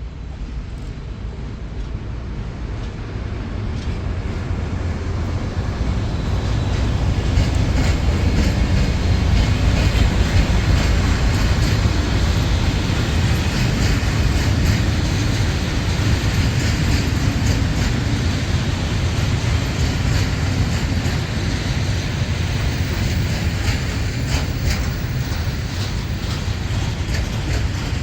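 A train passing close by: its rumble and rail noise build over the first several seconds, are loudest about ten seconds in, then run on steadily.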